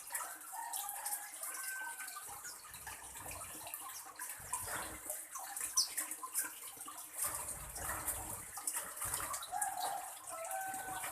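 A steady hiss like running or trickling water, with scattered faint clicks and a few short bird calls and chirps, one a quick rising chirp.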